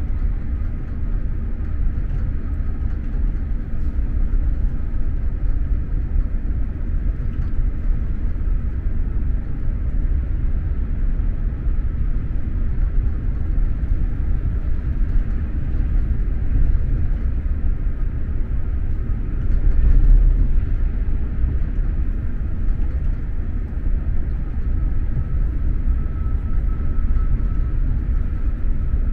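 SJ X2000 train running along the track, a steady low rumble of wheels and running gear heard from inside the passenger carriage. The rumble swells briefly about two-thirds of the way through, and a faint thin tone rises near the end.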